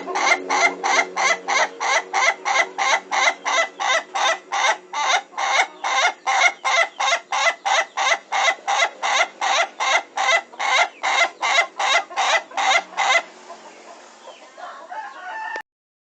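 Ayam Ketawa (laughing chicken) rooster crowing: a long, even run of short laugh-like notes, about three a second, that stops abruptly about thirteen seconds in. A fainter sound follows until the audio cuts off near the end.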